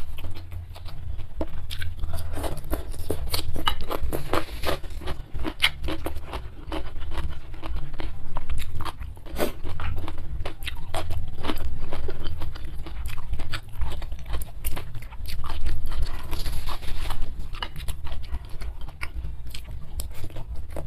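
Close-miked chewing of spicy fried instant noodles with sardines: a dense run of wet mouth clicks, smacks and crunches, over a steady low hum.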